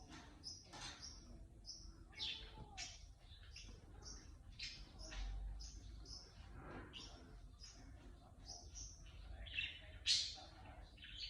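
High squeaky tweets, short chirps repeated about twice a second, several sliding down in pitch, with the loudest one near the end.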